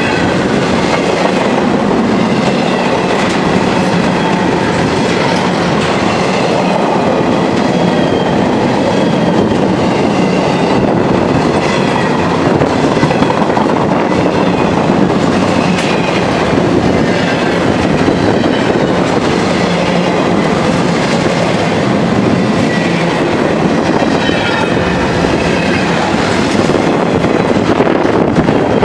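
CSX double-stack intermodal freight train passing close by at speed: a steady loud rumble of steel wheels on the rails with clickety-clack over the joints and light high-pitched wheel squeals now and then.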